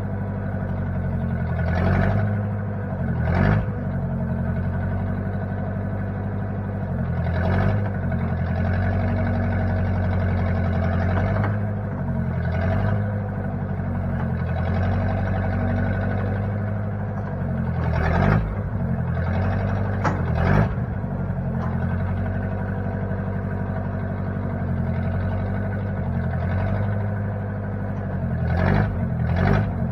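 1960 Case 540 backhoe's engine running steadily, with a handful of short clunks and brief dips in the engine note scattered through.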